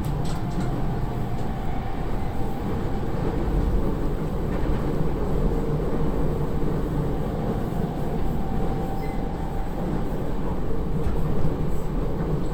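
Heard from inside the cabin, a Narita Line electric commuter train runs at speed between stations: a steady rumble of wheels on the rails. A faint steady whine fades in and out over it.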